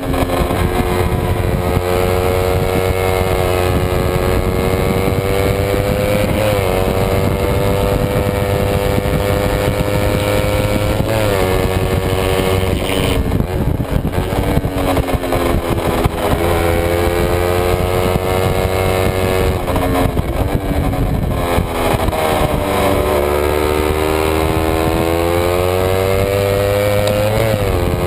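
Kawasaki Ninja 250 race bike's parallel-twin engine at high revs, heard onboard with wind rush. The pitch climbs steadily and drops sharply at each upshift, several times. About three quarters of the way through, the pitch falls off for a slower stretch, then climbs again.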